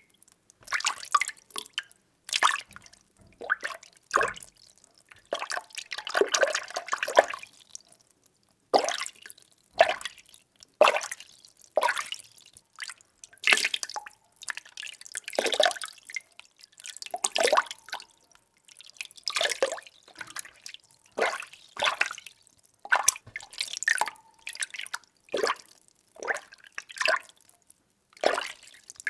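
Water being stirred: irregular swishes and sloshes, roughly one every second or two, with a longer churning stretch about six seconds in.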